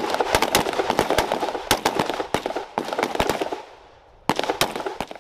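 Several rifles firing fast, overlapping shots, a squad returning fire on a contact drill. The dense volley breaks off about three and a half seconds in, and a few more shots come near the end.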